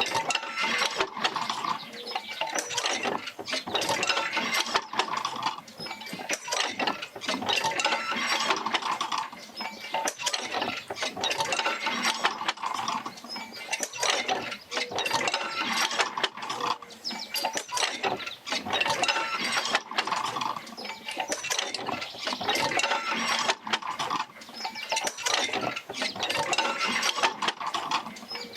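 Oil-field field wheel and its iron jerker lines working, with a constant run of metal clinks, clanks and rattles that swells about every four seconds as each stroke of the rig's motion passes through.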